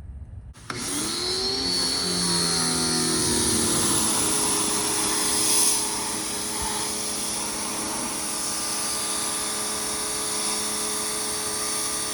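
A small motor starts abruptly, winds up and then runs steadily with a high whirring noise.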